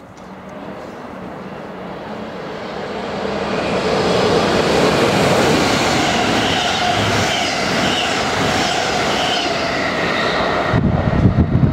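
Yellow NS double-deck train passing through the station at speed: its noise builds over a few seconds to a loud rushing rattle of wheels on rails, with faint high whining tones. Near the end the high noise cuts off suddenly and a low rumble takes over.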